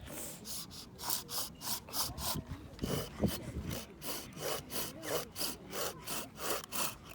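Hand saw cutting through a piece of firewood in steady back-and-forth strokes, about three a second.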